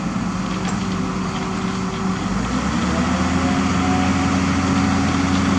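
Heavy diesel truck engine running, its low note stepping up to a higher, steadier speed a little under three seconds in.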